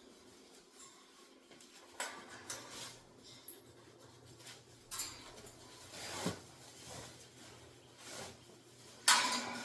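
Intermittent knocks, clatter and rustling from cleaning out a parrot cage's poop tray, with the loudest knock near the end. A faint low hum runs underneath from about two seconds in.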